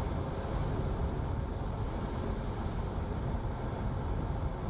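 Steady drone of a light Cessna's piston engine and propeller with airflow noise, heard inside the cabin on final approach with flaps extended.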